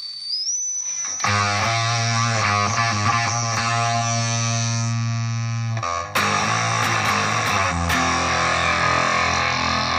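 Electric guitar through a Zvex Fuzz Factory fuzz pedal, played on a Gibson SG's neck pickup into a Roland Cube 30 amp. A thin high whistling tone slides upward at the start, then a heavily fuzzed chord is struck about a second in and left to ring. A second fuzzed chord comes in about six seconds in and sustains.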